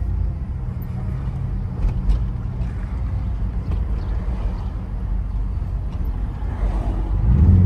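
Car engine running with road noise while driving, heard from inside, with a steady low hum that grows louder near the end as the engine pulls harder. The engine has a slight miss, which the owner suspects comes from an O2 sensor or the throttle body.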